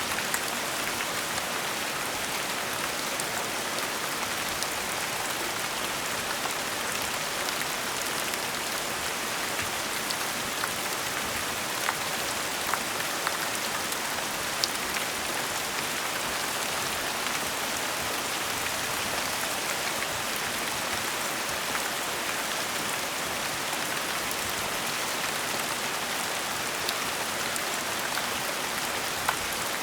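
Steady gentle rain falling, an even hiss with scattered individual drops ticking through it.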